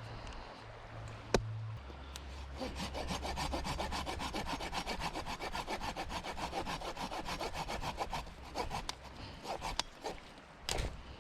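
Hand saw cutting wood in quick, even back-and-forth strokes, starting about two seconds in and tailing off near the end. There is a sharp click just before the sawing begins and a knock near the end.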